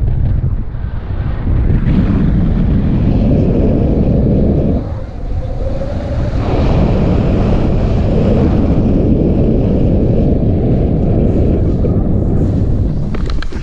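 Wind buffeting the microphone in flight: a loud, steady low rumble that eases briefly about five seconds in.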